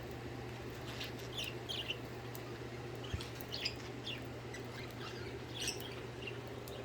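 Pet budgerigars chirping in short, scattered calls over a steady low hum.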